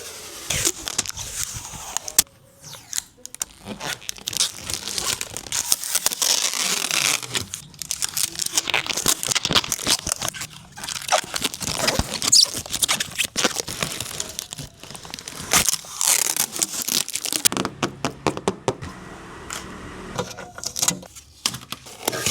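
Packaging being torn off and handled while a refrigerator is unboxed: tearing, crinkling and scraping of plastic wrap and cardboard, with frequent sharp clicks and knocks.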